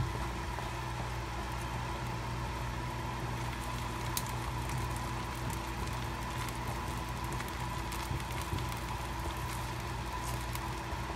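Egg-substitute omelet mixture sizzling and bubbling softly in a nonstick skillet, over a steady hum, with a few faint light clicks.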